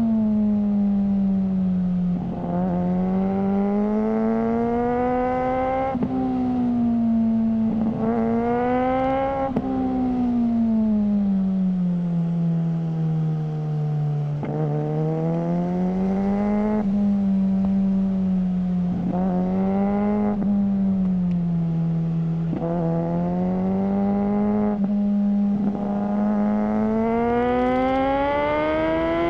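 Suzuki GSR600's 600 cc inline-four running through a GPR Ghost aftermarket exhaust, its revs rising and falling over and over, with short sharp clicks at several points as it pulls and backs off. The pitch climbs highest near the end.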